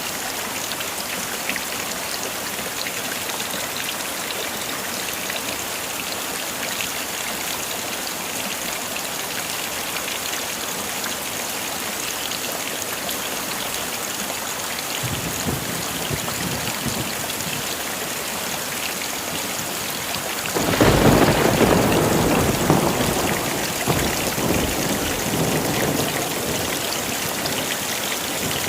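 Heavy rain falling steadily with a constant hiss; a low thunder rumble builds faintly from about halfway, then a loud roll of thunder breaks suddenly near the end and slowly fades.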